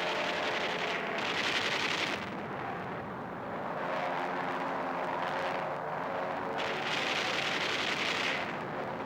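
Aircraft engines droning in an old war-film soundtrack, broken by two loud rushing noise bursts, one about a second in and a longer one near the end.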